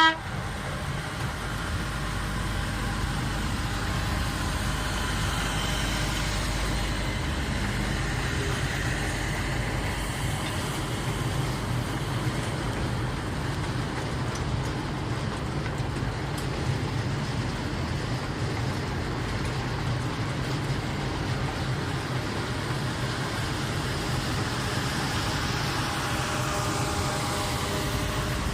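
Engine of an amusement-park ride train running steadily, a continuous low rumble with road and motor noise.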